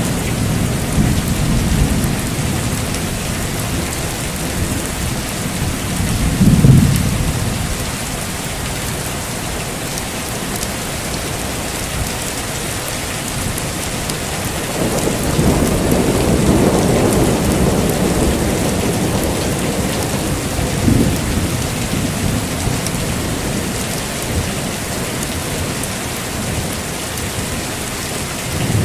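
Heavy rain falling steadily, with thunder rumbling. The loudest thunder comes about six to seven seconds in, and a longer rumble follows from about fifteen to nineteen seconds.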